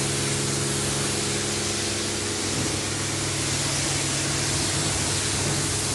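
High-pressure spray wand at a coin-operated self-service car wash, spraying water as a steady hiss with a low hum underneath.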